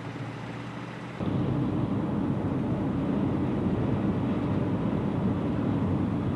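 Road and wind noise inside a moving car, a steady low rumble that jumps suddenly louder about a second in.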